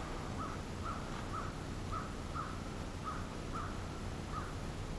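A bird calling over and over outdoors: short, similar notes about two a second, all at one pitch, against a low steady background rumble.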